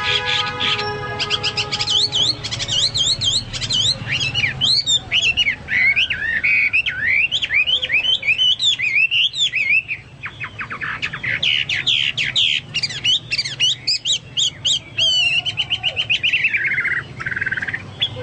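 Chinese hwamei singing loudly in a varied, continuous stream of rapid trills and swooping whistled notes, in the style likened to a cucak Papua or cucak mas. A brief harsh call opens the passage.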